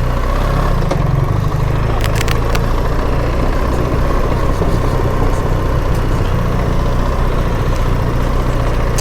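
BMW R 1300 GS boxer-twin engine running steadily at low revs while the motorcycle rolls along slowly, with a few short clicks about two seconds in.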